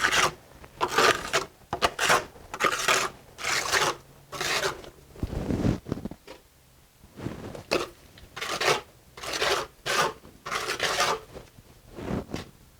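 Mason's trowel scraping mortar against brick in about a dozen short strokes, roughly one a second, with a brief pause around six to seven seconds in.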